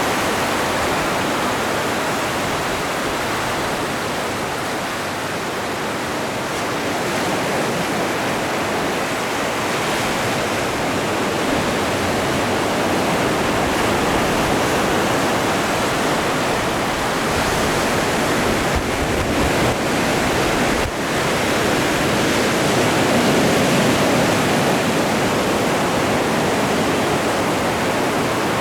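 Atlantic Ocean surf: waves breaking and washing in a steady rushing noise that swells a little toward the end.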